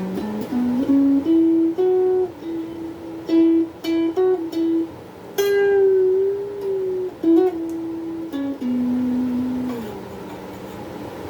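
Donner Q1 HSS Strat-style electric guitar played through a small Cahaya amp: a slow single-note melody with picked notes and a long, wavering held note about halfway through, then stepping down to lower notes that ring out more quietly near the end.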